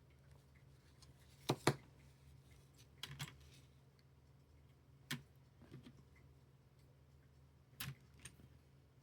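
Small plastic building bricks being handled and pressed together, giving a few sharp plastic clicks at irregular intervals, with a close double click about one and a half seconds in.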